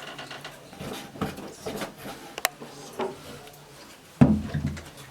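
Scattered knocks and clatter of things being handled, with a sharp click about halfway through and a heavy thump near the end.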